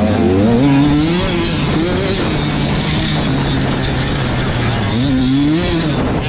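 Several 85cc two-stroke motocross bikes racing, their engine pitch rising and falling over and over as the riders work the throttle.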